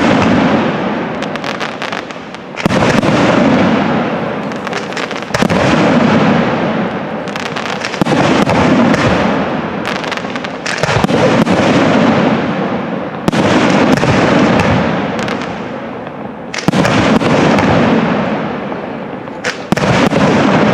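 Aerial firework shells bursting overhead, one loud boom about every two to three seconds, each trailing off in a long fading rumble.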